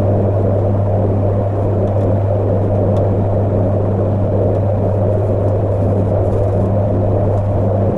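Airless paint sprayer's motor running with a steady, unbroken hum.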